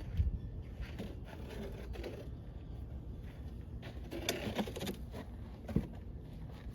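Scattered light knocks, clicks and scrapes of tools and metal parts being handled, with a denser patch of handling noise about four seconds in, over a low steady rumble.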